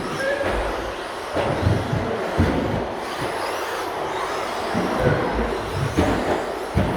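Radio-controlled stadium trucks racing, their motors whining up and down in pitch as they accelerate and brake. A short beep sounds just after the start and again about five seconds in, with low thumps throughout.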